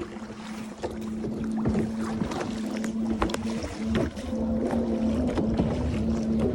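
Motorboat engine droning, a steady hum that sets in about a second in, with short knocks and splashes close by.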